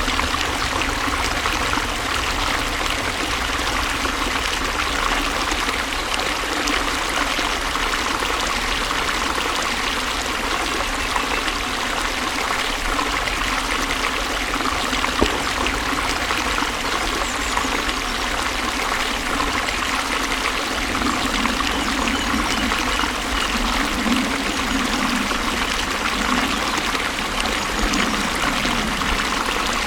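Flowing water running steadily, an even rush without any break.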